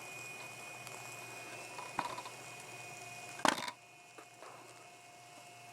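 Steady faint hiss with a light click about two seconds in and a sharper knock about three and a half seconds in, after which the hiss drops away.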